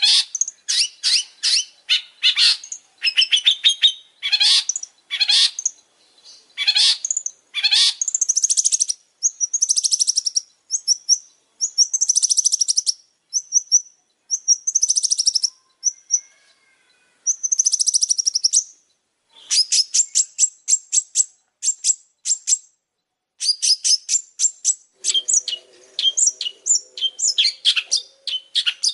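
Long-tailed shrike (pentet) singing a fast, varied song of short, high chattering phrases and rattling trills, with a few brief pauses.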